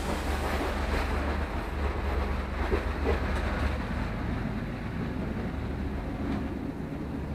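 Steady low drone and rumble inside an old non-air-conditioned passenger train carriage, with the diesel locomotive coupled just beyond the end door, and a few light knocks from about one to three seconds in.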